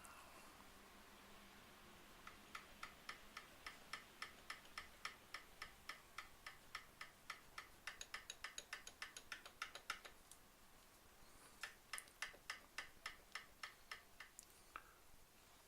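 Faint, evenly spaced mechanical clicking, about four clicks a second, in two runs: one of about eight seconds and, after a short pause, another of about three seconds.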